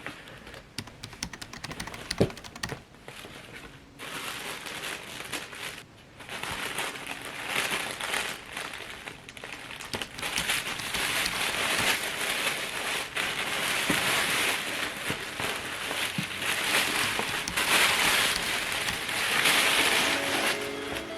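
Packaging being handled: paper or plastic wrapping rustling and crinkling, with small clicks, louder from about a third of the way in.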